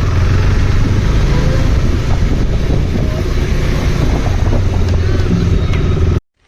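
Motorcycle engine running steadily with a low rumble, the sound cutting off suddenly near the end.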